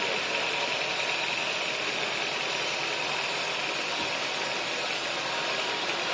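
Steady drone of sawmill machinery, an engine running at an even speed with no change.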